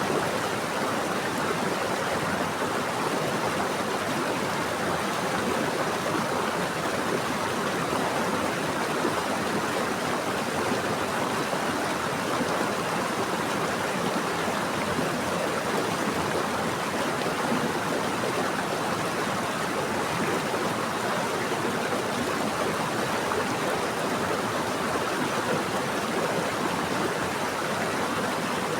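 Flowing stream water rushing steadily, an even rush strongest in the mid range with no breaks.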